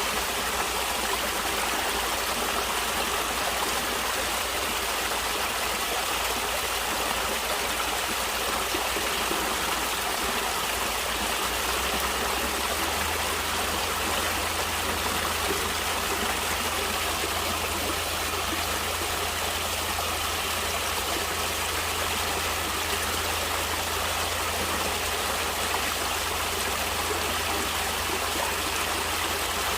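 Stream water flowing and splashing steadily, a continuous rushing noise with no break.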